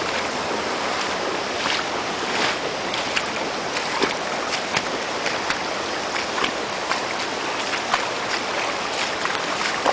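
Steady rushing of floodwater from an overflowing brook, with scattered short sharp ticks throughout.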